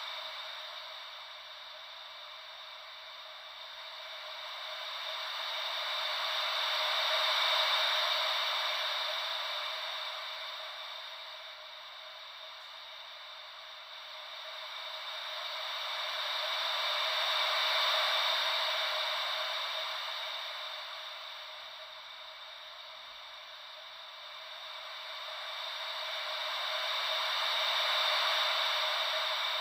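Ocean-wave white noise: a steady hiss that swells and fades slowly and evenly, about one swell every ten seconds, with no deep rumble beneath it.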